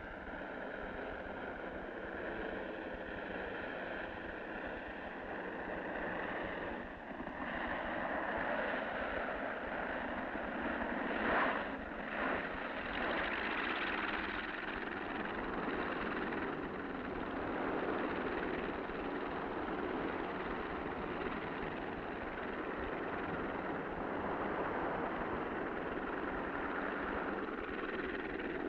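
Light floatplane's piston engine running on final approach and landing on a river, growing louder partway through, with a brief louder burst about eleven seconds in.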